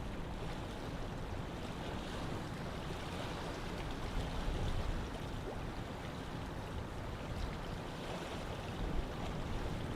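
Steady rushing of water, with a low rumble underneath.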